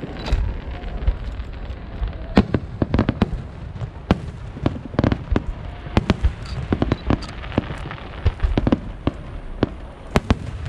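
Aerial fireworks shells bursting in quick, irregular succession: many sharp bangs and cracks over a continuous low rumble.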